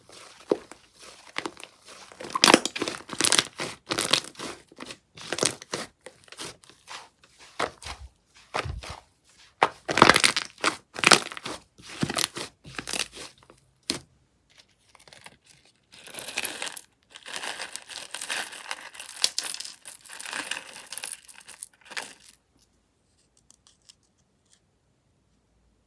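Slime being handled, squished and stretched by hand, making a run of sticky pops and crackles. The crackling breaks off about 14 seconds in, starts again denser a couple of seconds later and stops near the end.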